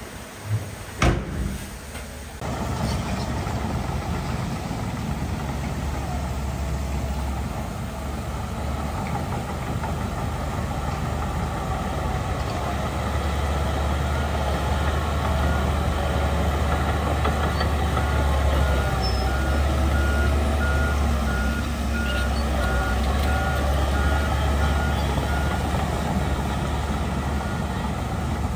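Heavy diesel earthmoving machinery running steadily with a deep rumble, starting in after a sharp knock about a second in. A reversing alarm beeps repeatedly through the middle part.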